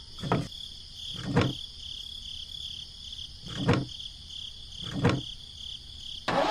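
A steady, high-pitched insect drone like crickets, with four brief soft swishes spread through it. The drone stops just before the end.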